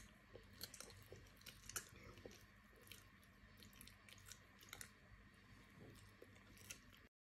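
A child quietly chewing a mouthful of soft frosted cake, with many small, irregular mouth clicks; the sound cuts off suddenly near the end.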